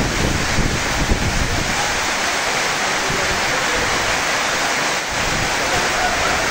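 Heavy rain pouring down in a steady, loud hiss, with wind buffeting the microphone in the first second or so.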